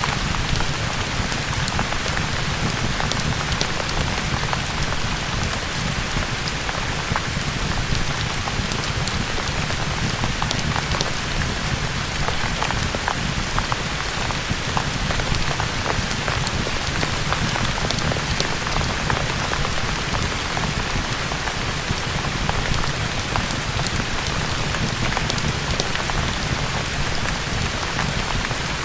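Steady rain falling: an even, dense hiss with a low rumble underneath and many small sharp ticks of drops, unchanging throughout.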